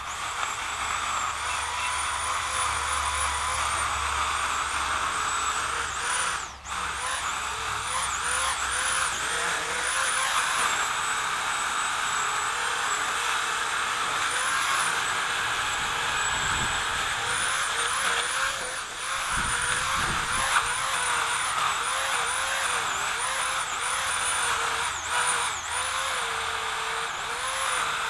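Chainsaw running continuously, its whine dipping in pitch again and again and recovering as it bogs under load while cutting branches.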